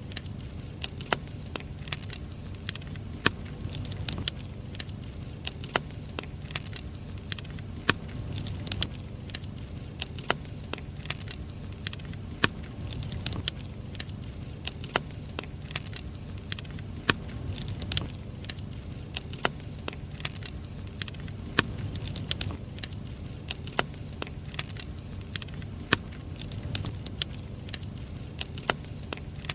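Wood fire burning, firewood crackling and popping with many sharp, irregular snaps over a steady low rumble of the flames.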